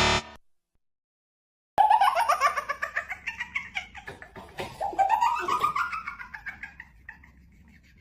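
High-pitched giggling laughter sound effect: quick bursts of laughing with pitch rising and falling, fading out over about five seconds, after a short electronic tone that cuts off at the start.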